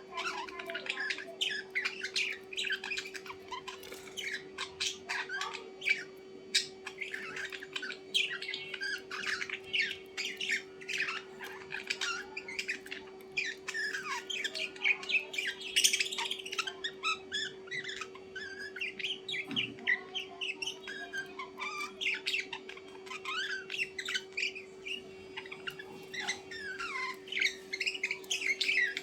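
Many small birds chirping and squawking continuously in quick, overlapping calls, over a steady low hum.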